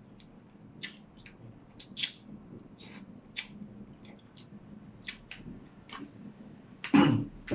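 Close-miked mouth chewing cucumber kimchi: scattered wet clicks and smacks of chewing and biting. A brief louder vocal sound comes about seven seconds in.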